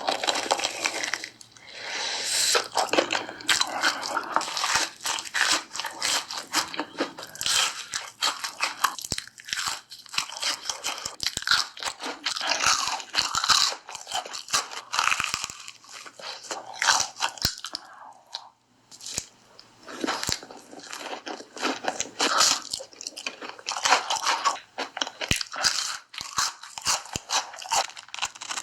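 Crunching and chewing of hot Cheetos, many crisp bites and chews in quick, irregular succession, with a brief pause about two-thirds of the way through.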